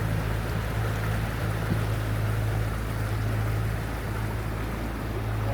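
Riverboat engine running at a steady speed, a constant low hum under the rush of water and wind.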